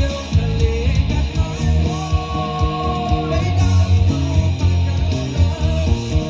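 A band playing a rock song: electric guitar, bass and drums with a steady beat, and a melody line over it.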